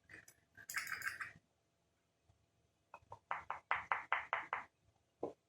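Screwdriver scraping debris out of the bottom of a small carburetor float bowl: a short scrape about a second in, then a quick run of about eight scrapes near the middle, and a single click near the end.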